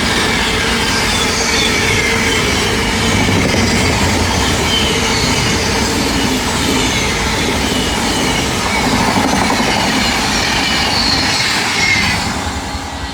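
A train passing close by: a steady rumble of wheels on rail with short, repeated high squeals from the wheels, dying away near the end.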